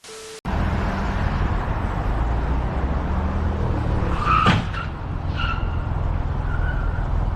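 Motor vehicle engine running steadily, with a few short high squeals about halfway through.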